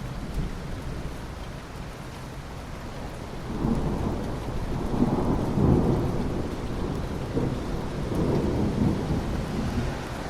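Steady rain falling, with a long roll of thunder that builds about a third of the way in, is loudest in the middle and rumbles on until near the end.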